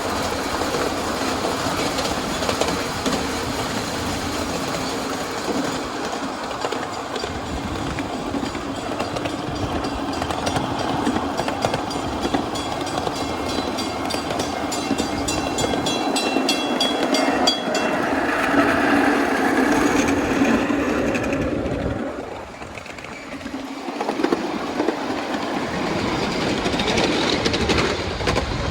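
Miniature 7¼-inch gauge train running along its track: steady rumble of wheels on rails, with a regular clicking through the middle stretch and a brief quieter spell about three-quarters of the way in.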